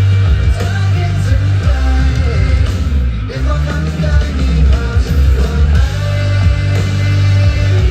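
Live rock band playing with electric guitars, bass and drums, a singer's voice over it.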